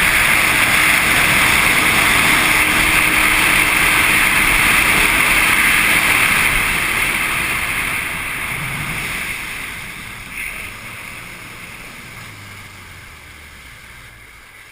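Jet ski running at speed, its engine mixed with rushing wind and water noise; from about six seconds in it gradually eases off and the noise fades as the craft slows.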